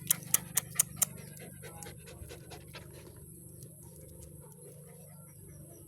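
A dog panting softly, with a quick run of about six sharp clicks in the first second.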